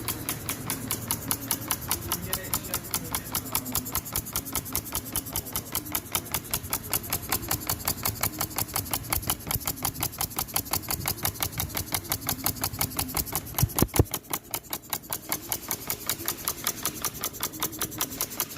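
Compressed-air engine running steadily, each stroke a sharp beat at about five a second, with one louder knock about two-thirds of the way through.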